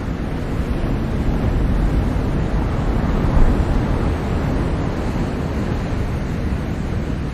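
Ocean surf: a steady wash of breaking waves, swelling a little about three seconds in.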